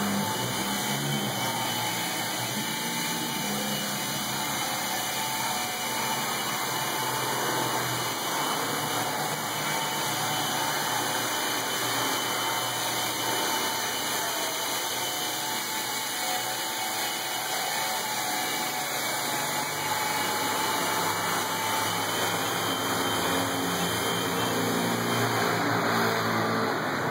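Candide Lightning toy helicopter's small electric motor and rotor running with a steady whir, getting slightly louder near the end.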